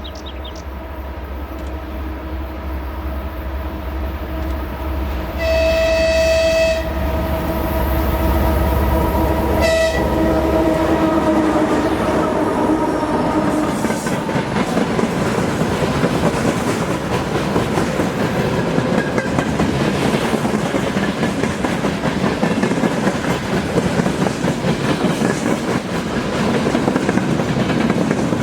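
2TE10U twin-section diesel locomotive with a freight train: its deep diesel engine rumble as it comes on. It sounds its horn with one blast of about a second, about five seconds in, and a short blast near ten seconds. Then the freight wagons roll past, wheels clacking over the rail joints.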